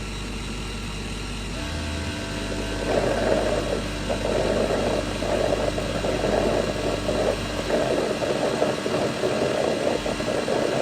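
Robot vacuum cleaner running: a steady motor hum that gains a higher whine about one and a half seconds in, then a louder, rougher whirring joins about three seconds in.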